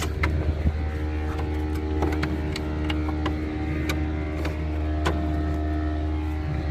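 A vehicle engine running at a steady idle, with scattered light metallic clicks from tools and bolts being handled.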